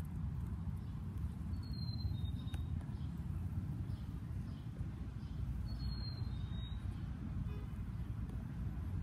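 A small bird whistling a clear two-note call, a high note sliding slightly down and then a lower note, heard twice about four seconds apart. A steady low rumble runs underneath, like distant traffic.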